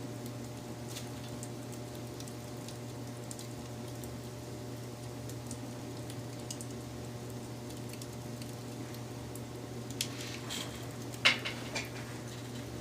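Wood fire crackling, with a steady low rumble and scattered small pops and snaps. A quick run of louder pops comes near the end.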